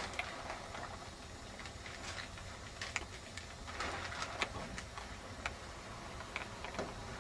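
Builder's film (plastic sheeting) rustling and crinkling in scattered small crackles as it is handled.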